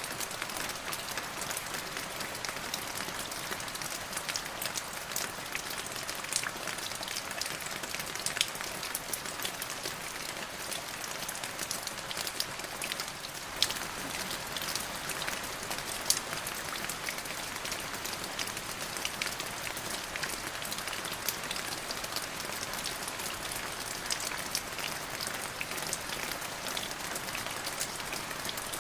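Steady rain falling on a surface: a dense even hiss of drops, with scattered louder single drop hits.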